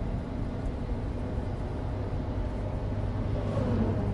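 Inside the cabin of a Suzuki Alto Turbo RS kei car on the move: the steady drone of its small turbocharged three-cylinder engine mixed with tyre and road rumble from studless winter tyres on dry pavement.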